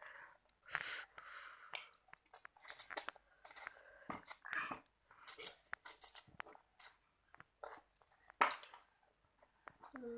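A child eating Samyang spicy instant noodles close to the microphone: irregular chewing and mouth noises, a few short bursts every second.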